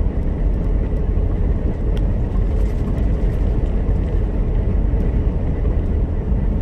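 Steady rumble of a semi truck's diesel engine and road noise inside the cab at highway cruising speed.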